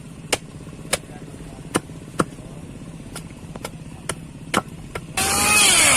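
A series of sharp knocks at uneven intervals, roughly one or two a second, over a low steady hum. About five seconds in, a much louder engine-like sound with a wavering pitch cuts in abruptly.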